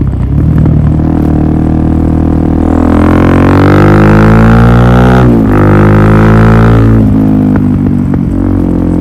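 Suzuki DR400SM supermoto's single-cylinder four-stroke engine running through a Yoshimura full exhaust system. The revs climb from about two and a half seconds in, drop sharply just past five seconds, climb again, then ease off about seven seconds in.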